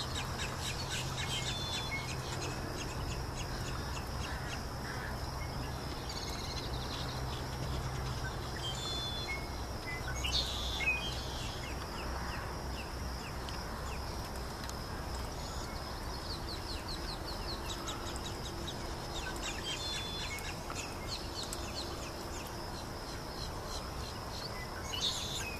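Wild birds chirping and calling: many short high chirps throughout, with a louder burst of calls about ten seconds in and again near the end, over a steady high-pitched hum.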